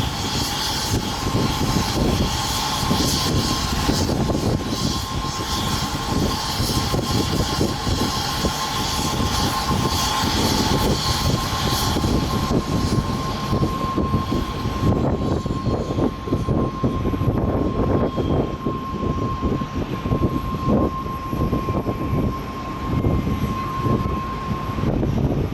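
Jet engines of a Boeing 777-300ER (GE90-115B turbofans) at high thrust: a deep, rough rumble with a steady high whine. The high hiss fades about halfway through and faint falling tones follow as the jet draws away.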